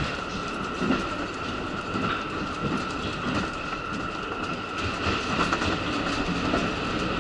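KiHa 85 diesel railcar running, heard from inside the passenger car: a steady rumble of wheels and engine with a few steady tones above it and scattered clacks of wheels over rail joints.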